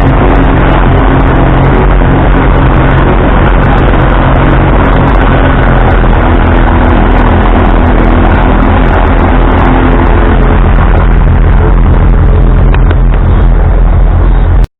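Ford 2N tractor's four-cylinder flathead engine running, a steady, very loud engine sound close to the microphone that cuts off suddenly near the end.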